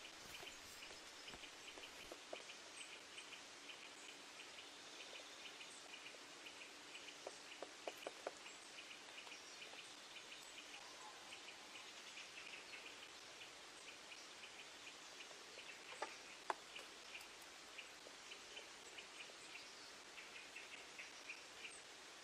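Faint background of birds calling, a run of short high notes repeating throughout, with a few sharp clicks about eight seconds in and again around sixteen seconds in.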